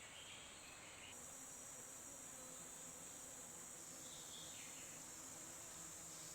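Faint chorus of insects, a steady high-pitched buzz that grows stronger about a second in.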